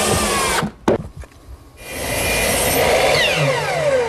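Power drill driving screws into wood: a short run, a few sharp knocks, then a longer run whose motor whine falls in pitch near the end as it slows.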